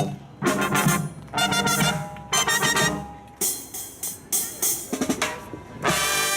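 A live brass band with drum kit playing short, punchy phrases separated by brief gaps and drum hits, closing on a held chord near the end.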